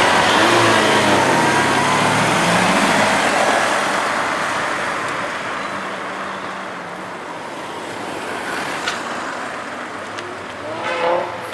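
Lamborghini Aventador's V12 engine accelerating, loud at first with its pitch rising and falling, then slowly fading as the car draws away. A brief rise and fall of an engine note comes near the end.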